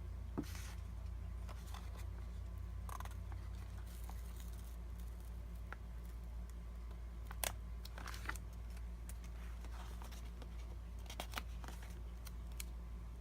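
Paper sticker sheets being handled, with stickers peeled and pressed onto a planner page: scattered light clicks and short paper rustles over a steady low hum.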